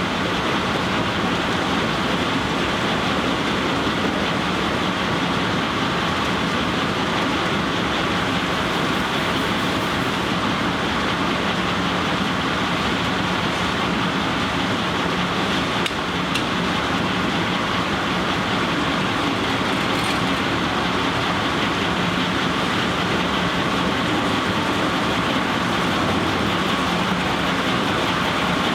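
Steam-powered sawmill machinery running steadily: a constant even noise with a faint low hum, no single cut or knock standing out.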